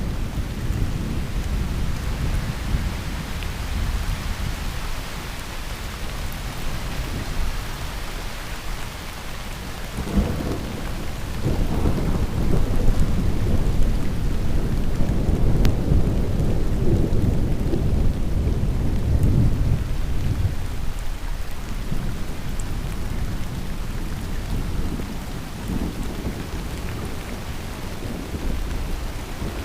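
Heavy rain with rolling thunder. A steady rain hiss runs under a deep rumble that swells about a third of the way in, peaks, and eases off over the last third.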